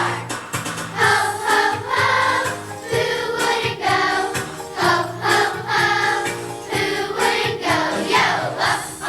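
Children's choir singing a Christmas song in unison over an instrumental accompaniment with a steady bass line.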